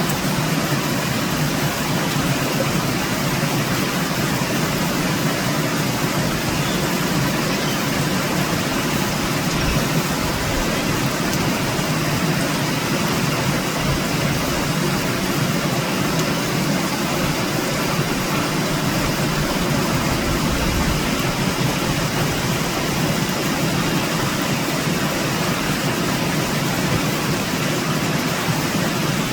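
Heavy cyclone rain pouring down, a steady, unbroken hiss.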